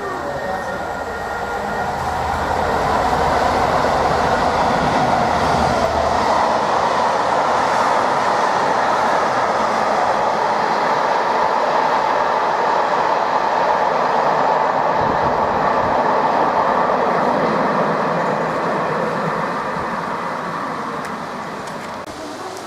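A train passing close by: a steady rumble and rattle of wheels on rail that swells over the first few seconds, holds, then fades toward the end.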